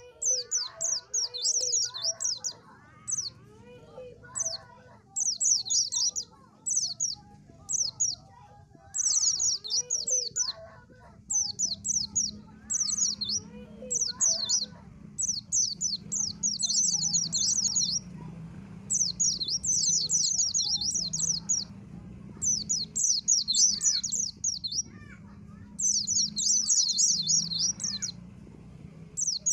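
White-eye (pleci) singing in rapid, high-pitched twittering phrases of a second or two, repeated with short gaps. Lower chirps sound under it in the first half, and a steady low hum sets in about a third of the way through.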